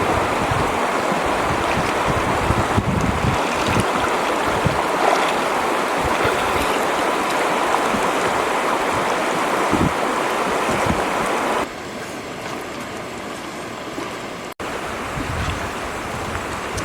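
Steady rushing noise of flowing water, with occasional low knocks; it drops in level about two-thirds of the way through and cuts out for an instant near the end.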